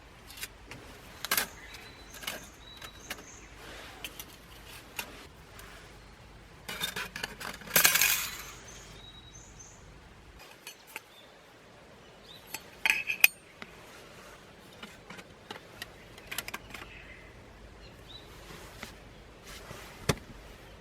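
Small metal cookware and stove parts being handled: scattered light clinks and knocks, some ringing briefly. A louder clatter comes about eight seconds in and another about thirteen seconds in.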